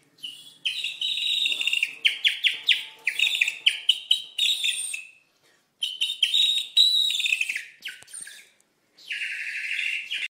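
Small songbird singing in three runs of quick, high chirps separated by short pauses.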